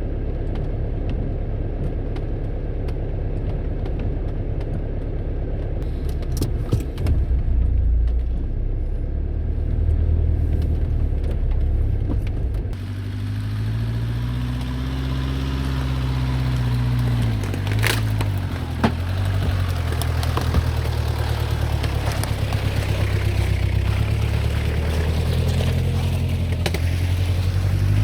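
A 1997 Jeep Cherokee XJ's 2.5-litre VM Motori turbo diesel engine runs at low speed on an off-road trail, its revs rising and falling. A few sharp knocks come in the second half.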